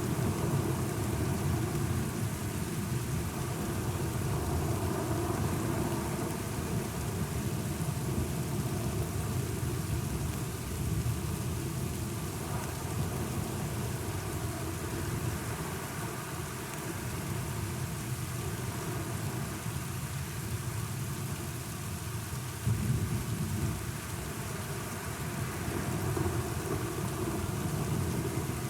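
Steady rain with a low, rolling rumble of thunder that rises and falls, swelling briefly about two-thirds of the way through.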